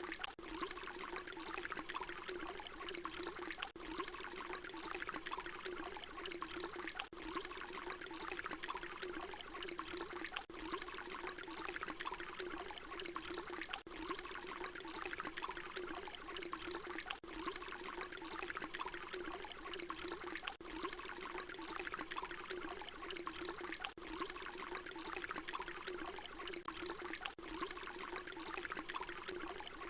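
Water pouring in a steady, even stream. It is a short recording looped, with a brief dip in level about every three and a half seconds.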